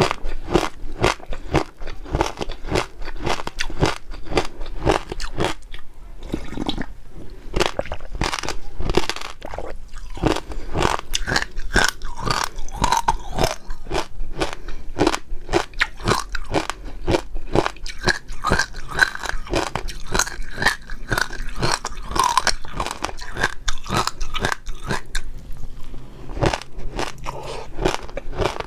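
Close-miked eating: rapid, continuous crunching and chewing of jelly pearls, with many sharp bites and wet chews in quick succession.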